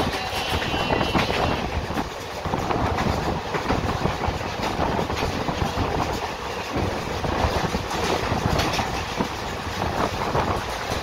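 Running noise of an ICF passenger coach on the move, heard from inside at a window seat: a steady rumble of wheels on rail with irregular clicks and clatter from the track.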